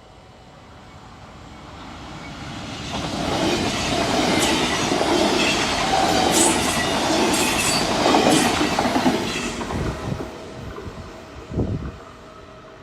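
Train passing a railway level crossing: it builds up as it approaches, runs past loudly with wheel-on-rail noise and a few sharp clacks, then fades. A couple of low thumps follow near the end.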